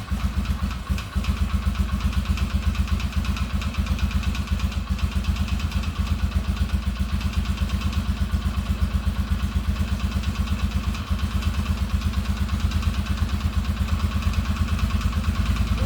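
Polaris Sportsman ATV engine idling steadily with an even exhaust pulse, running without trouble after a valve adjustment.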